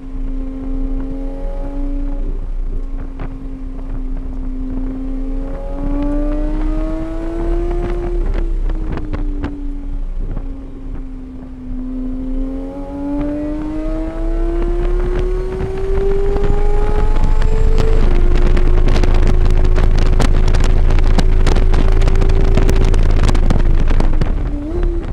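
A vehicle engine heard onboard at speed on a race track. It pulls up in pitch through the revs, drops back as the driver shifts or lifts, then pulls again. From about 18 seconds it holds high revs under loud wind rush, and near the end it falls away as the driver comes off the throttle.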